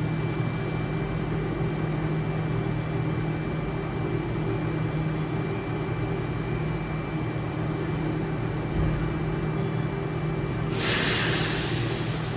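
Diesel power car of an XPT train running steadily with an even, low hum. Near the end a loud hiss of compressed air bursts out for about two seconds.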